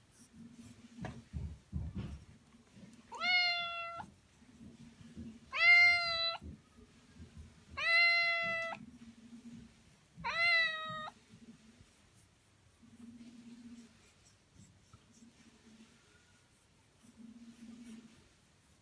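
Domestic cat meowing four times, each call a rising then held meow a little under a second long, spaced about two and a half seconds apart; after the fourth it falls quiet apart from faint low sounds.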